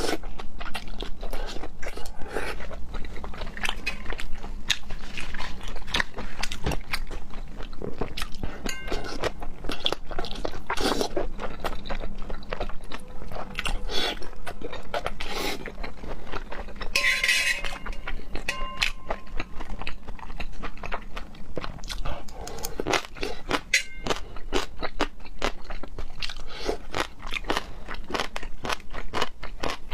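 Close-up chewing of raw seafood: a continuous run of wet mouth clicks and smacks.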